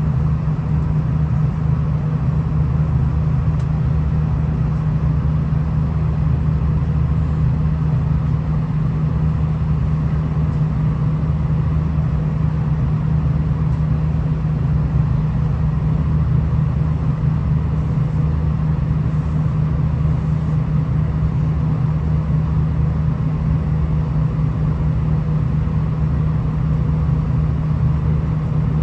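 V/Line VLocity diesel railcar running along the line, heard from on board: a steady low diesel drone with an even rumble from the wheels and track.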